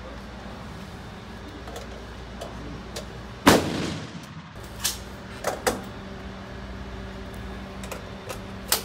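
A single loud gunshot about three and a half seconds in, with a short echo in an indoor range. It is followed by a few sharp clicks and knocks of a rifle and cartridges being handled.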